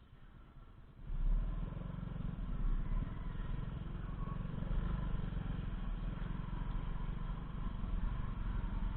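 A vehicle engine running with a steady low rumble, coming in about a second in after near quiet.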